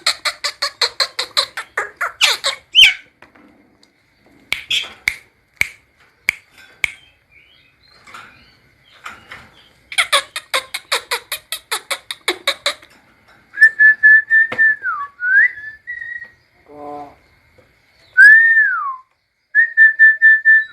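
Javan myna calling: two bursts of rapid, harsh rattling chatter, then clear held whistles, several of them ending in a downward slide.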